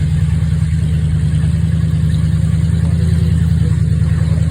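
Engine of a monster-truck tour bus running steadily at low speed, a deep even drone heard from aboard the vehicle.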